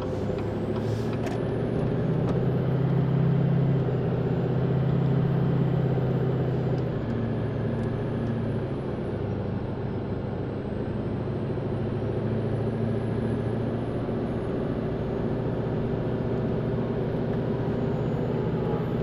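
A car's engine and road noise heard from inside the cabin while driving: a steady low hum that rises and falls slightly with speed, with a few sharp knocks about a second in.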